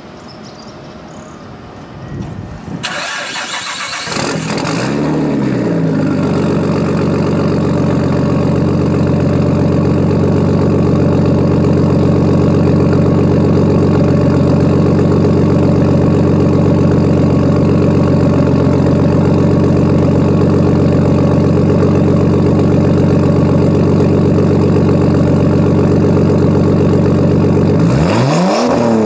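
Nissan Skyline R33's straight-six is cranked by the starter about two seconds in, catches with a brief flare of revs, and settles into a steady idle through a straight-pipe exhaust with the rear muffler deleted. Near the end it is revved once, rising and falling.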